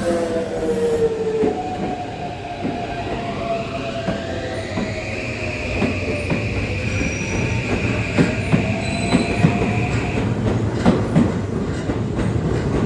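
Keisei electric commuter train moving through the station: its motor whine glides down in pitch, over a steady rumble with a high tone and wheel squeal. Sharp rail clicks come mostly in the later part.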